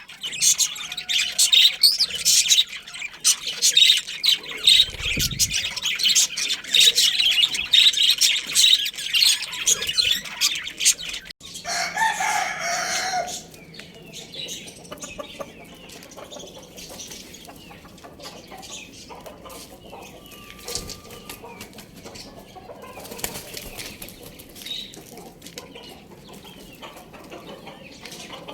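Pet birds: dense, high chirping for about the first eleven seconds, then an abrupt change to a single loud call lasting about two seconds, followed by quieter, sparse calls from domestic fowl.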